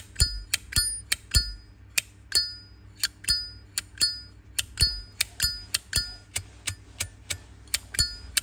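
Zippo lighter lid flicked open and snapped shut over and over: a quick run of metallic clicks, about two to three a second, each with a short bell-like ring.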